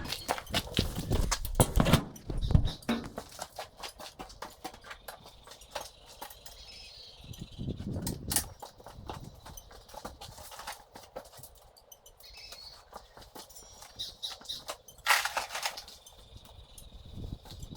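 Footsteps with scattered knocks and clatter as tools and materials are handled and set down, with a few heavier thumps.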